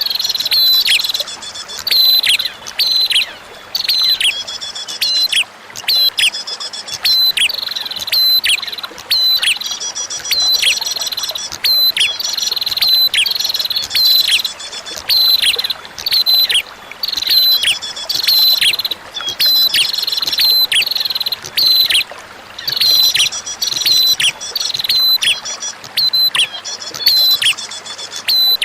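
Prenjak (prinia) song: bursts of sharp, repeated chirps, each note dropping steeply in pitch, coming about once a second. Under the song runs a faint steady trickle of flowing water.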